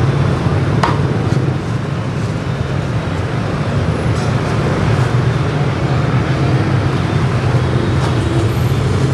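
Steady road traffic rumble from a busy street, with a sharp knock about a second in.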